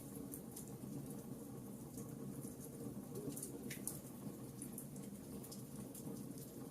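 Campfire crackling: scattered sharp pops and snaps, several a second, over a steady low rumble of the burning fire.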